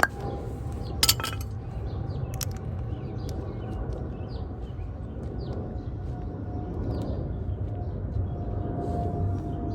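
Metal clinks and taps from handling brake caliper parts: a sharp clink at the start, a louder double clink about a second in, then scattered small ticks, over a steady low background hum.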